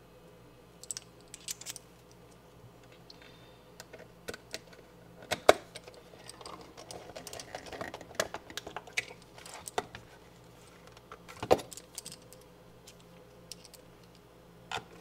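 Small screwdriver turning screws into a plastic electronics housing, with scattered clicks and knocks as the case and tool are handled. A busier run of quick ticks and scrapes comes in the middle, with sharp knocks about five and a half and eleven and a half seconds in.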